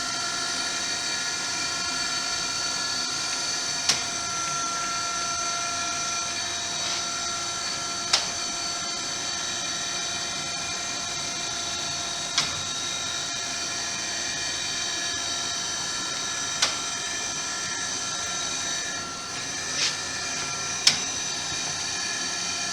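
Brown & Sharpe 814U universal grinder running idle, the wheel head backed off and not grinding: a steady multi-tone motor and spindle whine, with a sharp click about every four seconds as the power table traverses back and forth.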